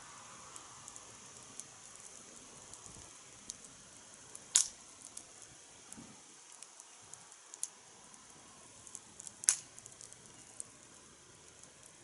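Wood fire crackling, with scattered small ticks and two louder pops about five seconds apart.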